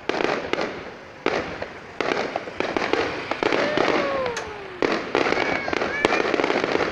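Fireworks going off in repeated volleys: each starts with a sudden bang and trails into dense crackling that fades over about a second, with fresh volleys following every second or so.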